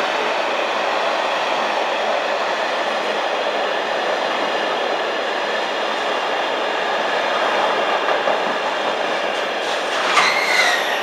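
Container freight train rolling steadily past, its wagons running over the rails in an even rumble. A brief wheel squeal comes near the end.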